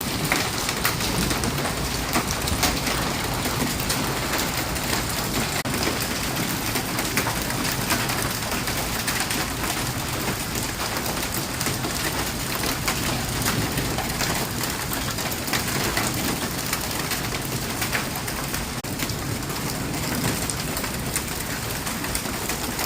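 Hail pelting down in a storm: a steady dense patter with many sharp clicks and knocks of hailstones striking surfaces.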